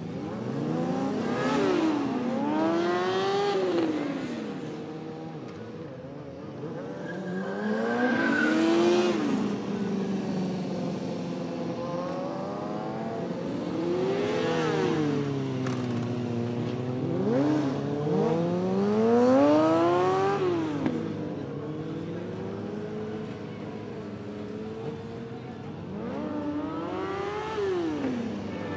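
Motorcycle engine revving up and falling back several times, its pitch climbing and dropping in long sweeps.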